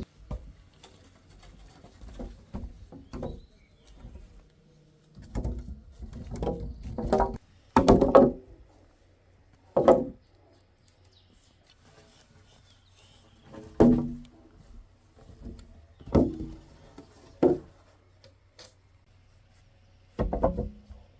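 Scattered knocks and thuds from building work, arriving unevenly a second or more apart, with a few louder ones near the middle.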